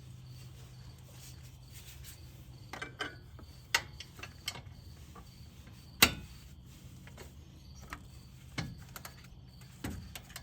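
Scattered clicks and ticks of a torque wrench tightening the castle nut on a truck's upper ball joint stud, with one loud, sharp click about six seconds in, over a steady low hum.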